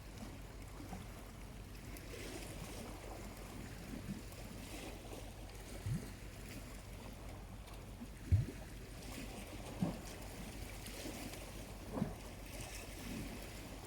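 Small, calm sea waves lapping at the shore: a faint steady wash that swells now and then, with four soft low splashes, the second one the loudest.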